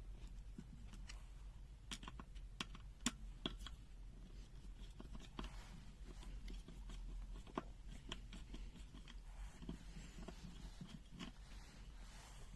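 Faint, scattered clicks and light scraping of small plastic parts and screws being handled as a multimeter is taken apart, with a steady low mains hum beneath.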